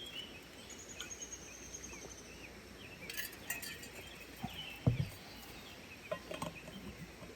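Quiet outdoor ambience: small birds chirping faintly over a steady background hiss, with a few sharp clicks about three seconds in and a single low thump about five seconds in.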